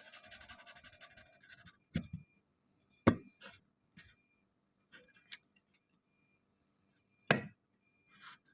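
Kinetic sand being scraped in quick, rhythmic strokes for the first two seconds, then worked in separate crunches, with three sharp knocks about two, three and seven seconds in.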